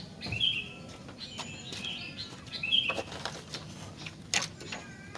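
Sooty-headed bulbul singing short, bright chirping phrases, three times: near the start, about two seconds in and, loudest, near three seconds. Sharp clicks and rustles are scattered between the phrases, including a distinct click a little after four seconds.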